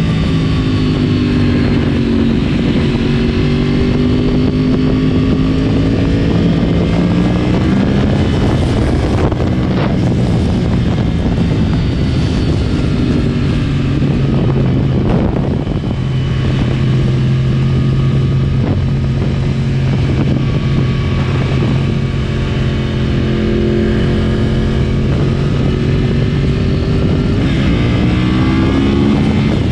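Yamaha R1 crossplane inline-four running through a decatted Akrapovic exhaust while being ridden. The engine note dips and rises early on, holds steady through the middle, dips again later and climbs sharply near the end.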